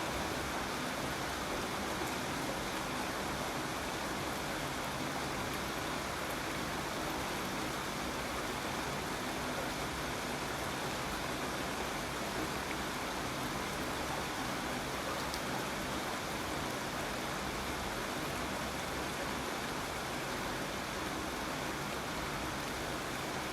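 Steady rainfall, an even hiss of falling rain with no breaks.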